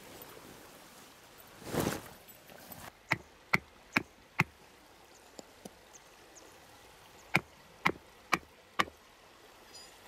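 Two sets of four sharp knocks, about two a second, after a brief rustle a couple of seconds in.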